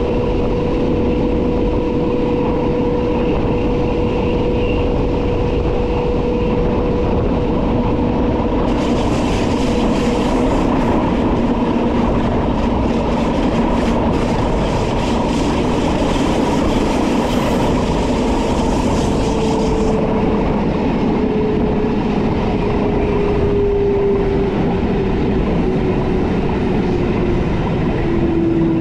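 Rhaetian Railway electric train running on metre-gauge track, heard from the driver's cab: a steady rumble with a motor whine. From about 9 to 20 seconds a hiss with crackling joins in, and in the last third the whine falls slowly in pitch.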